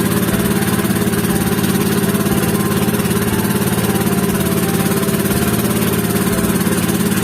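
The engine of a motorized passenger boat running steadily under way: a loud, even drone with a fast regular pulse.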